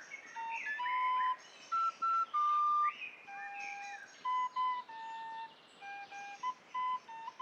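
A slow melody of clear, held whistle-like notes, as from a flute, stepping from pitch to pitch, with bird chirps sounding over it.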